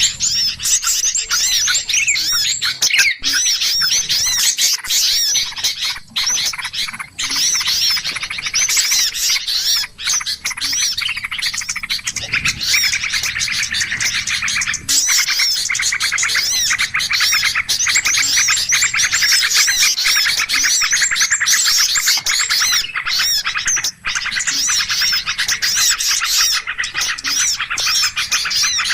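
Dense, unbroken chorus of many small birds chirping and twittering with quick high whistles, a bird-lure (pikat) recording meant to draw in wild birds of all kinds.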